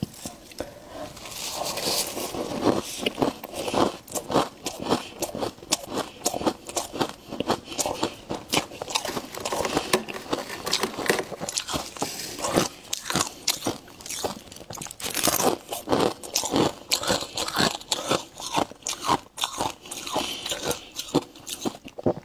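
Close-up crunching of ice being bitten and chewed, a dense irregular run of sharp crackles several times a second.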